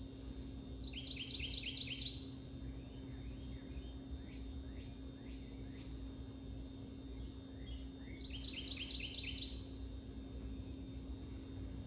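A songbird sings a short, fast trill of about half a dozen rapid notes twice, roughly seven seconds apart, with softer scattered chirps between. A steady low hum and a low rumble run underneath.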